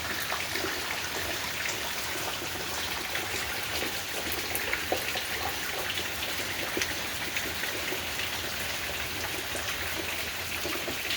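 Steady rain falling, with many small, scattered drop ticks over an even hiss.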